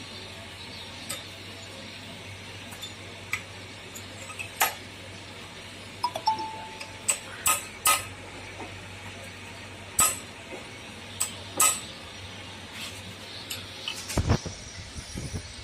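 Irregular metal clinks and taps of tools and steel parts, as a clip is fitted on a Komatsu motor grader, over a steady low hum. A dull thump comes near the end.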